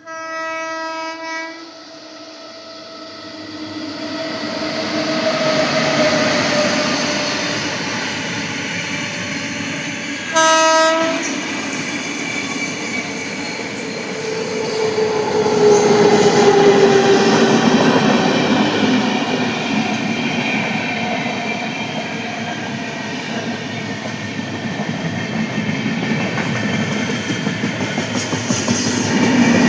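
A train horn sounds for about a second and a half at the start and again briefly about a third of the way in, over the continuous running noise of a train on the rails, which swells louder. A drawn-out falling whine comes about halfway through.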